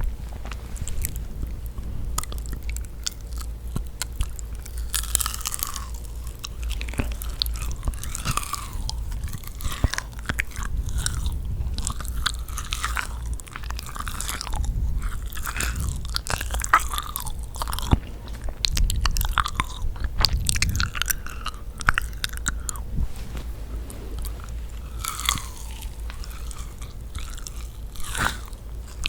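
Close-miked chewing and biting of yakgwa, sticky honey-soaked Korean fried cookies: a dense, irregular run of short wet smacks and clicks.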